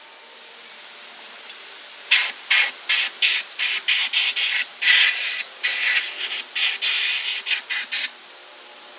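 Short, sharp bursts of spraying hiss, about fifteen of them over six seconds at two or three a second, starting about two seconds in.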